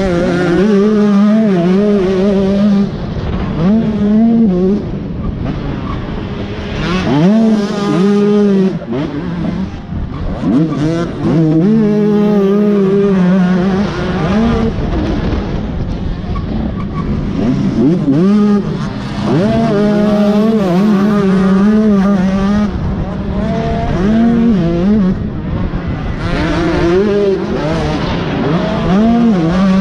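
Dirt bike engine being ridden hard, its pitch rising and dropping again and again as the throttle is worked and gears change, over a steady rush of wind noise.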